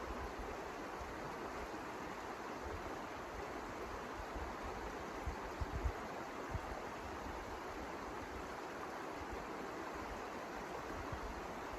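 Steady rushing of blizzard wind, with a few brief low bumps of wind hitting the microphone about halfway through.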